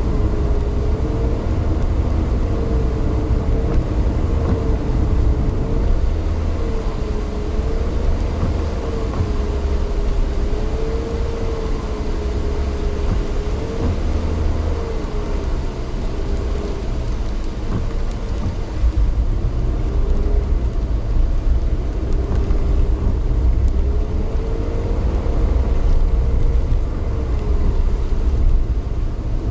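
A vehicle running on the move, heard from on board: a steady low rumble with a whine that slowly wavers up and down in pitch.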